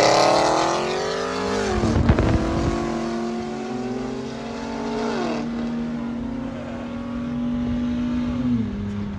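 Cars accelerating hard in a street race, the engine note climbing steadily and then dropping sharply at an upshift about two seconds in and again after about five seconds, before settling and falling away near the end.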